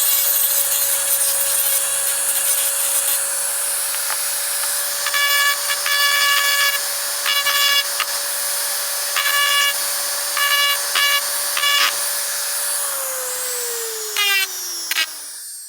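Power tool motor running steadily, with repeated short, high, ringing screeches as it works against the workpiece. Near the end it is switched off and spins down, its pitch falling.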